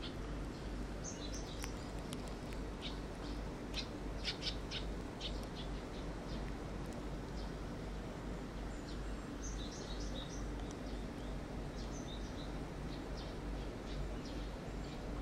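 Small birds chirping in short, high bursts, in two clusters: one early and one in the second half, over a steady low rumble of outdoor ambience.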